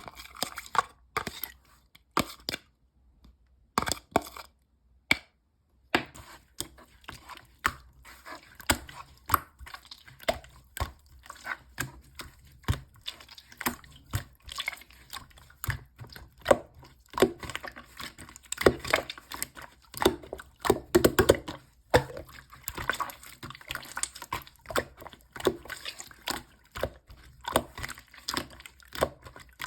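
Slime being squished and pressed by hand, giving many wet sticky clicks and pops; they come a few at a time for the first several seconds, then run on almost without pause.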